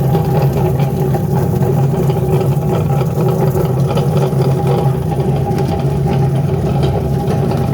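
Electric potato peeling machine (PP15, 0.75 kW motor) running with a loud, steady hum.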